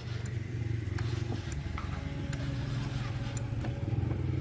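A motor starts up about as the sound begins and runs with a steady low hum, with scattered light clicks and taps over it.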